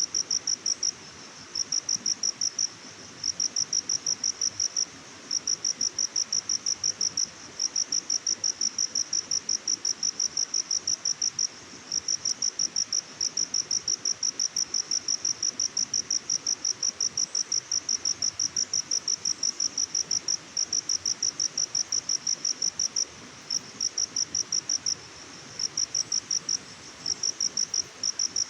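Cricket chirping in rapid, even high-pitched pulses, kept up in long runs broken by short pauses, over a soft steady background hiss.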